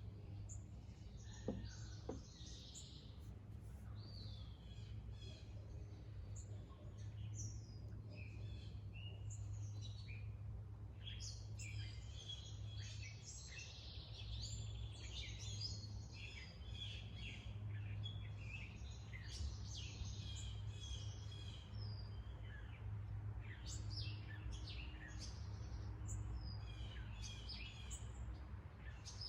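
Several birds chirping and singing at once, dense short calls overlapping throughout, over a steady low hum.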